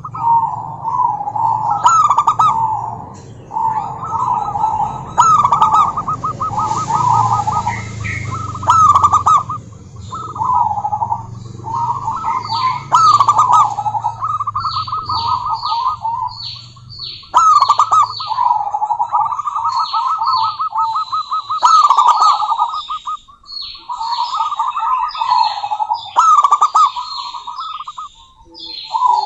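Female zebra dove cooing: repeated phrases of soft rolling coos, each lasting a second or two with short gaps. From about halfway, short, high chirps join in over the cooing.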